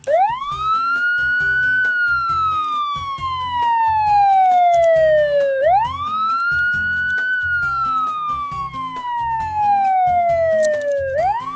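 Police car siren wailing: the pitch sweeps up quickly, then slides slowly down over about five seconds, twice, and starts rising again near the end.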